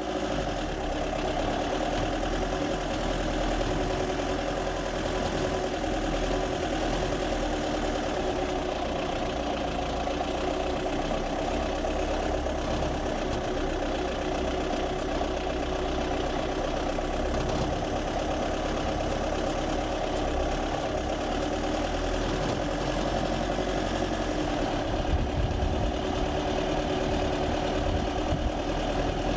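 Mitsubishi Delica truck's engine running steadily, with a constant low rumble.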